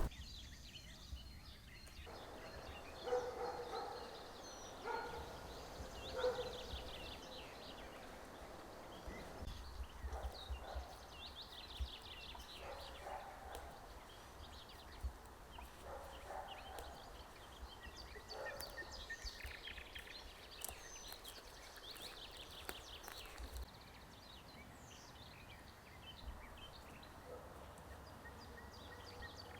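Forest birds singing: short, fast, high trills repeated every few seconds over a quiet outdoor background, with occasional low bumps.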